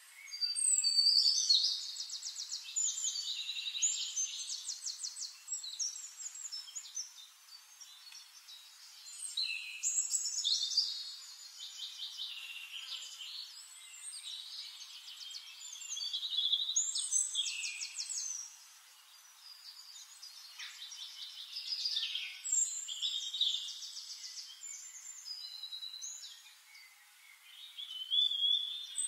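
Birdsong: bouts of rapid high trills and chirps, a few seconds long, recurring every few seconds.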